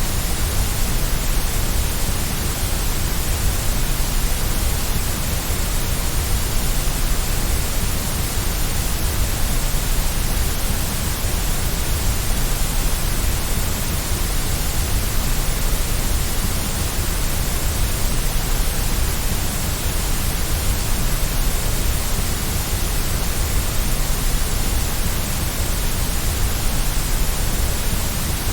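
Steady white noise: an even, unbroken hiss across the whole range, with a heavier low rumble beneath it.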